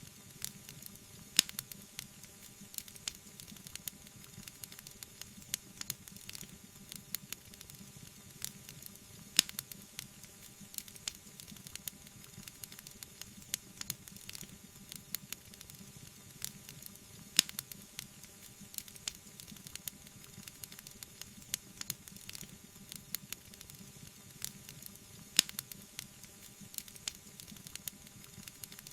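Wood fire crackling, with many small pops and a louder, sharper pop about every eight seconds.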